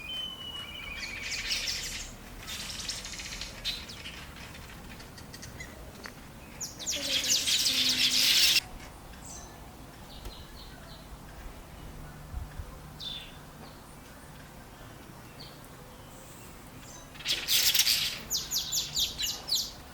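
Black-headed weavers chattering in dense, high-pitched bursts of a few seconds. The loudest bursts come about a third of the way in and near the end, where the chatter breaks into a fast run of repeated notes.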